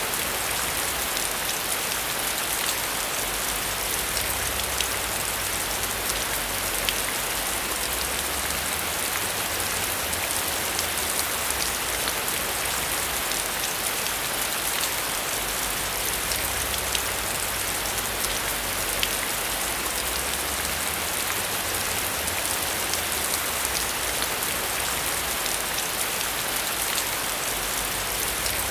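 Heavy rain falling steadily: a dense hiss full of sharp drop ticks, over a low rumble.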